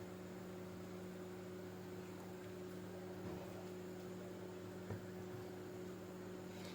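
Steady electrical mains hum over faint hiss, with one soft click about five seconds in.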